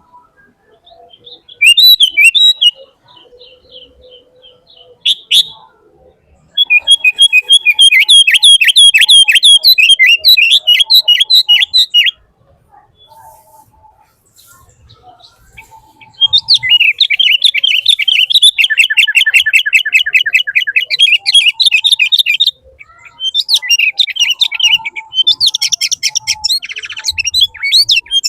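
A bird singing in long runs of rapid, repeated chirps and trills, each run lasting several seconds, with short pauses between them.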